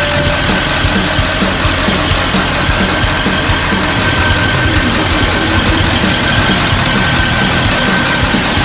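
A 1996 Ford 7.3 L Powerstroke V8 turbo diesel, swapped into a 1976 Ford F600, idling steadily with an even, regular pulse.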